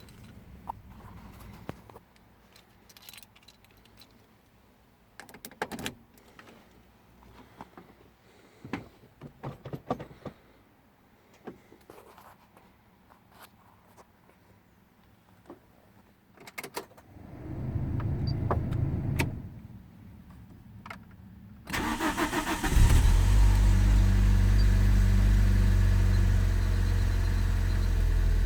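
Keys clicking and jangling in the ignition, then a low hum for about two seconds. After that the starter cranks the 1996 Toyota Carina E's 1.6 L 4A-FE four-cylinder for about a second before it catches and runs steadily. This is a cold start after a night below freezing.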